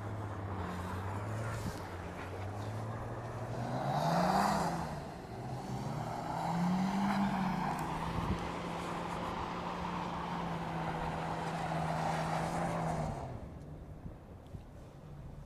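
BMW car engine revving up and down as the car drifts on snow, then held at steady high revs for about five seconds before fading away near the end.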